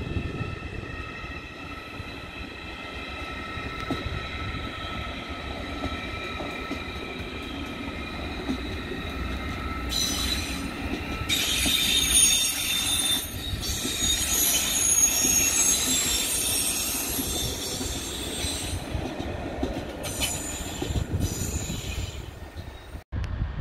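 Deutsche Bahn ICE high-speed train rolling past slowly on the next track. It gives a steady whine in several tones over a low rumble, then high-pitched wheel squeal on the rails from about halfway through for several seconds, with a shorter squeal near the end.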